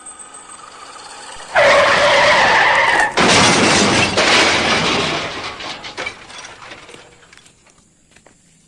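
A sudden loud skid lasting about a second and a half, then a crashing, breaking noise that fades away over a few seconds: the sound of the RC pickup's crash and rollover.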